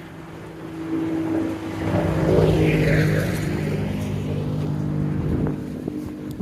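A motor vehicle's engine hum swelling and fading as it passes close by, loudest a couple of seconds in.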